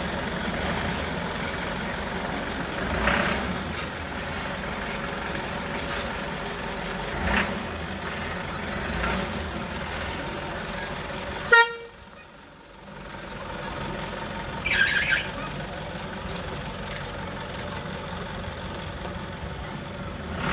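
Truck engine and road noise while driving, with a horn sounding briefly several times. A sharp click about halfway through, after which the noise drops for about a second.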